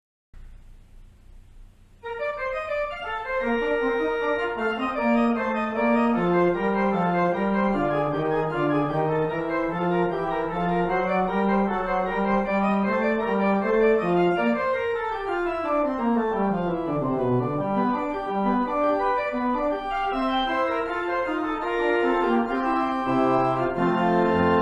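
Organ music: sustained chords with a moving melody, coming in fully about two seconds in after a faint start. Around the middle a lower line runs down and climbs back up.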